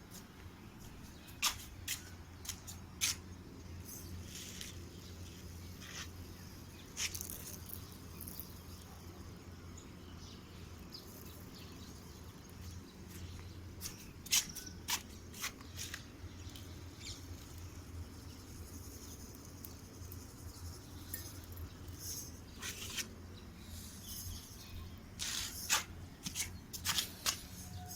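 Birds at a feeding spot: scattered short chirps and sharp clicks, coming more thickly near the end, over a steady low hum.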